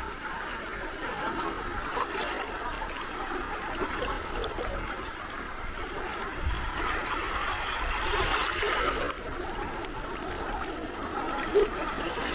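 Gentle sea waves lapping and trickling at the shore, a steady wash of water that swells a little past the middle and then eases off suddenly. A short sharp sound near the end.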